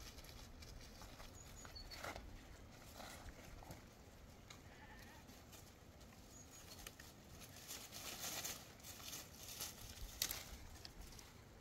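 Faint bleating of small livestock, goats or sheep.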